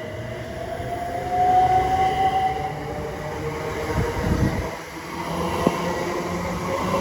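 Passenger train running through the station, with a whine rising in pitch during the first couple of seconds, then rumbling and a single sharp click near the end.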